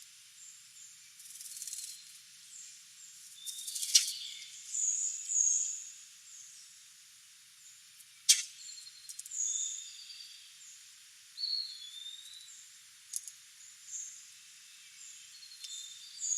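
Wild birds chirping and calling in short, high notes, scattered and irregular. Two sharp clicks, about four and about eight seconds in, are the loudest sounds, and there are a couple of brief patches of hissing noise.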